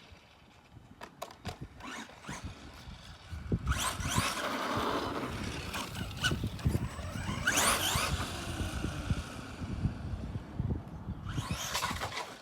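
Arrma Gorgon RC monster truck running on a 3S battery: its electric motor whines upward in pitch in three bursts of hard acceleration, with tyres scrubbing on the pavement. A few sharp clicks come before the first run.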